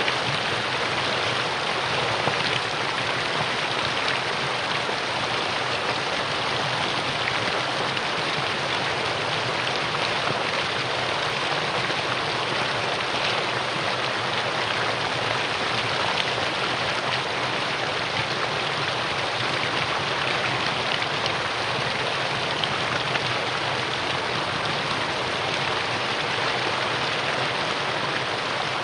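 Mountain valley stream flowing over rocks: a steady, even rush of water with no breaks.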